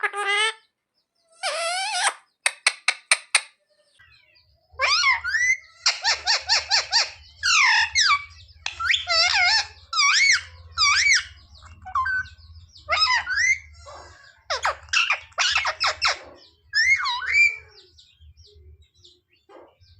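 Pet Indian ringneck parrot chattering in a quick run of short, high squeaky calls, with a brief burst of clicks about two to three seconds in.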